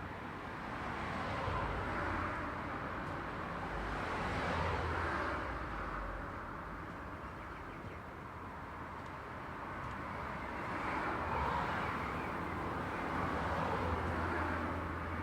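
Road traffic: several cars pass one after another, each one's tyre and engine noise swelling and fading, over a steady background of traffic.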